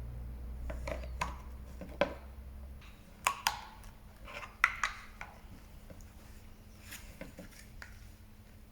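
Small toys being handled: a few sharp light clicks and knocks, loudest a pair about three seconds in and another pair a little later, with softer rustling between.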